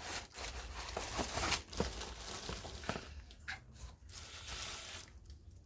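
Rustling and crinkling of packaging being handled, with irregular sharp crackles, busiest in the first two seconds and thinning out after about three seconds.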